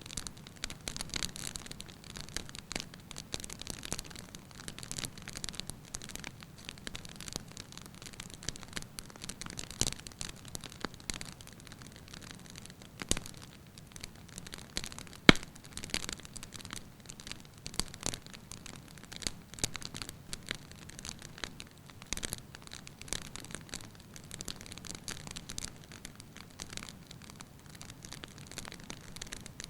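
Wood fire burning in a fireplace: steady crackling with frequent small snaps, and one sharp pop about halfway through.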